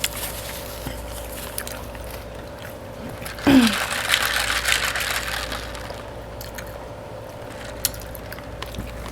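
A short falling vocal sound, then about two seconds of liquid pouring that fades out, with a few faint clicks later.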